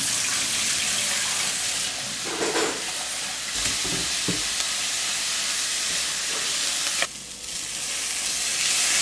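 Diced onion frying in a stainless-steel pan, a steady sizzle. Tap water runs briefly at the start as rice is rinsed, and a few light knocks come a few seconds in as a bowl of rice is set down on the steel sink drainer. The sizzle grows louder near the end as grated carrot goes into the pan.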